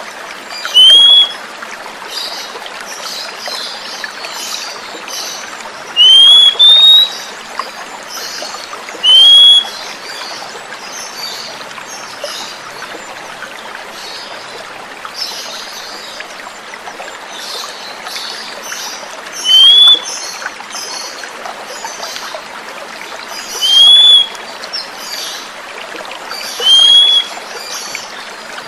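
Oriental magpie-robin (kacer) calling: about seven loud, short, upward-sweeping whistles at irregular intervals, with fainter chirps between them, over a steady sound of running water.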